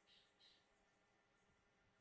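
Near silence, with two faint short high-pitched chirps in quick succession within the first half second.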